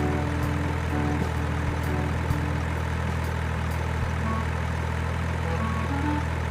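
Truck engine idling steadily with a deep, even drone, and faint stepping melody notes at the start and near the end.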